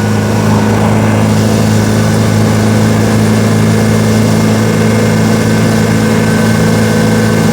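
1924 Austin Seven's small four-cylinder side-valve engine running steadily under way at an unchanging note, mixed with road and wind noise.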